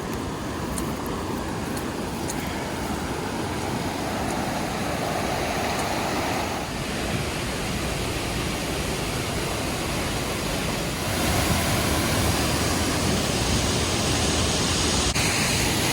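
Small mountain waterfall pouring: a steady rush of falling water, growing louder about eleven seconds in.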